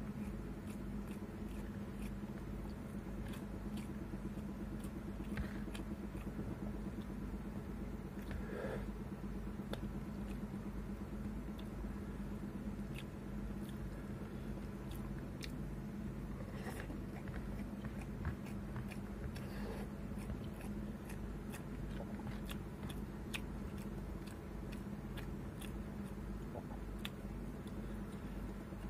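A person eating a meal of rice and fried egg with the fingers: chewing and mouth smacks with scattered small clicks, over a steady low hum.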